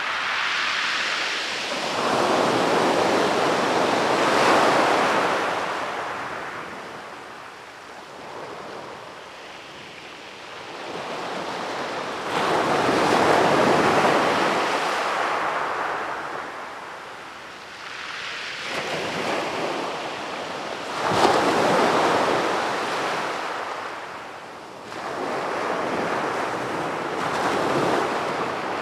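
Sea waves breaking on the beach and washing up the shore. About four waves come in turn, each rising in a rush of noise and then fading away; the sharpest break comes about two-thirds of the way through.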